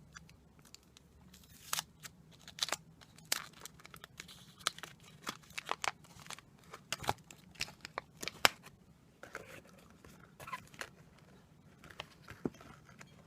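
A plastic sweets wrapper being torn open and crinkled in the hands, a quick run of sharp crackles that thins out in the last few seconds.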